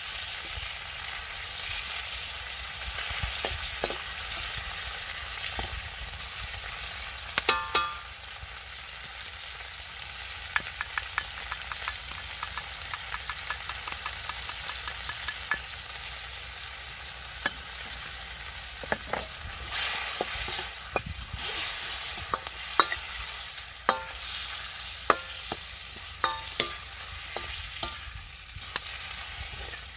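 Food sizzling and frying in a steel wok, stirred with a spatula that now and then knocks and scrapes against the metal with short ringing clinks. A run of quick crackling ticks comes through the middle.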